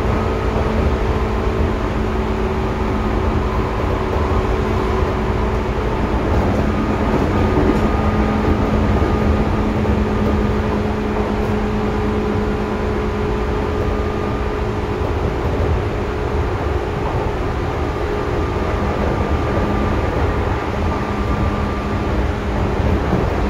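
Seibu 2000 series electric train running at a steady pace, heard from inside the car: a continuous rumble of wheels on rail under a few steady humming tones from the running gear.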